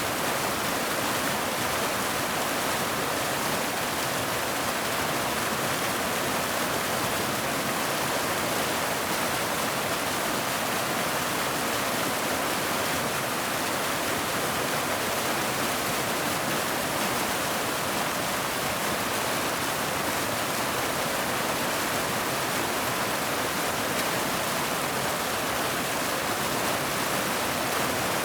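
Waterfall: falling water rushing in a steady, even noise that does not change.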